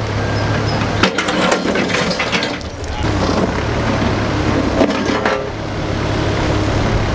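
Engine of heavy equipment, likely a Bobcat machine, running steadily while stone is moved, with scattered knocks and scrapes of rock on rock.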